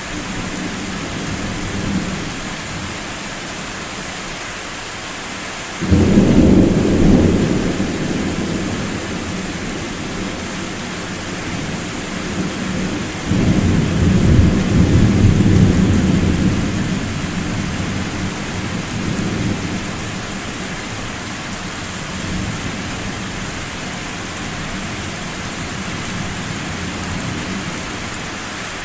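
Two rolls of thunder over steady rain. The first starts suddenly about six seconds in and the second about thirteen seconds in; each rumbles deep and low for several seconds before fading back into the rain.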